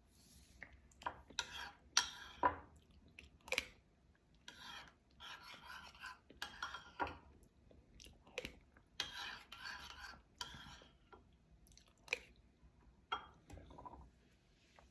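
Irregular taps, clicks and short rustles of small objects being handled close to the microphone in a small room.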